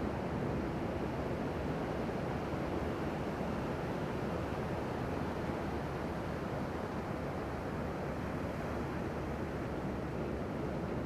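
Steady wash of ocean surf breaking on the beach, with wind buffeting the microphone.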